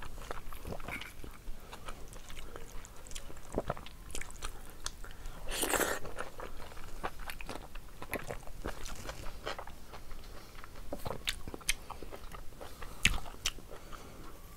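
Close-miked mouth sounds of a person chewing rice and curry eaten by hand: wet smacks and many short sharp clicks. About six seconds in there is a longer, louder noisy stretch, and near the end one sharp loud click.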